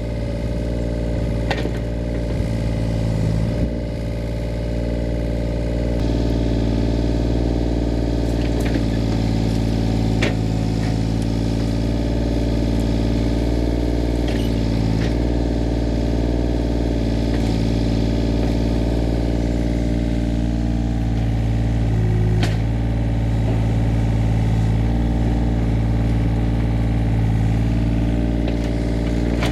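An engine running steadily, picking up slightly about six seconds in, with a few sharp knocks over it.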